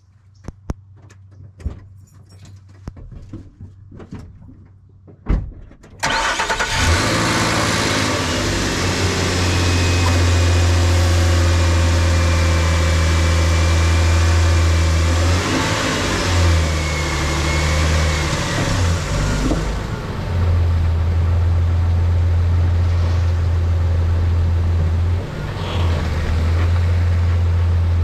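A few scattered clicks and a knock, then about six seconds in the 2012 Nissan Frontier Pro-4X's 4.0-litre V6 starts and keeps running, its low hum swelling and dipping a few times.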